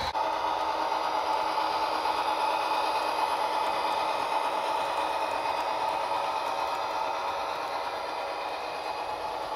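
Model train running along the track: a steady motor whir with light rail clatter, easing off slightly near the end.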